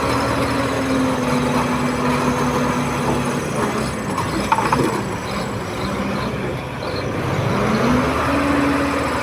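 Komatsu D31P bulldozer's diesel engine working, its pitch dropping a few seconds in and climbing back near the end, with a brief sharp sound about halfway.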